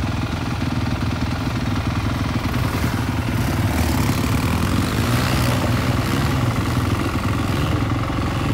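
Dirt bike engine idling close by, a steady low rumble that holds at an even level.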